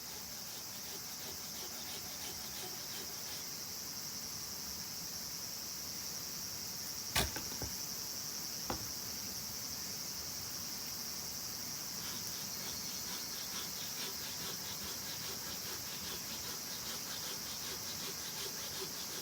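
Campfire burning with faint crackles and two sharp pops, about seven seconds in and a second and a half later, over a steady high chorus of crickets or other insects.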